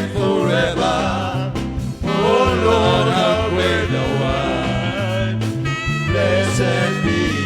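Live praise and worship music: a band playing under a voice singing wordless, wavering lines.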